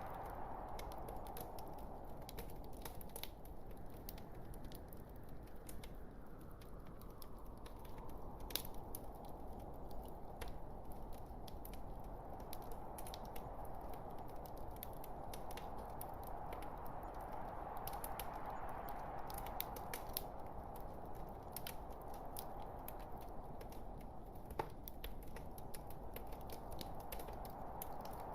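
Log fire crackling: irregular sharp pops and snaps of varying loudness over a steady hiss of burning wood that slowly swells and eases.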